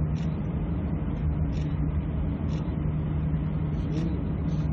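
Steady drone of idling aircraft engines heard inside the passenger cabin while the plane holds position on the ground, with a strong low hum underneath.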